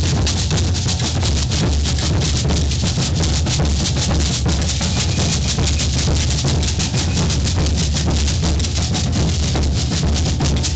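Maracatu percussion group playing in procession: deep bass drums (alfaias), snare drums and shakers in a dense, driving rhythm.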